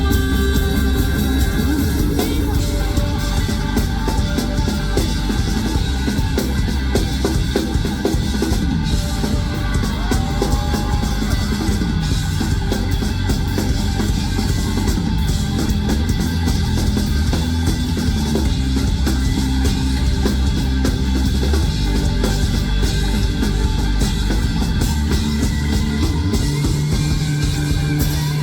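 Rock band playing live in an instrumental passage: a driving drum kit over heavy bass and guitars, with no singing. About two seconds before the end the bass settles onto a held note.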